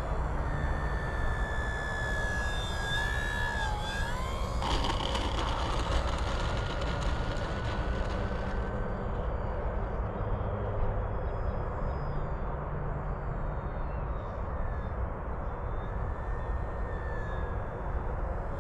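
Electric motor and propeller of an FMS Cessna 182 1.5 m RC plane in flight, a thin whine that drops in pitch about four seconds in and climbs again as the throttle is modulated, then fades after about nine seconds, over a steady low noise.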